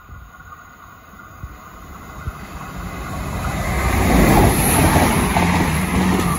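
Irish Rail 22000 Class diesel multiple unit approaching and running past close by, growing louder to a peak about four seconds in: a low underfloor diesel engine drone together with wheel and rail noise and a high hiss as the cars go by.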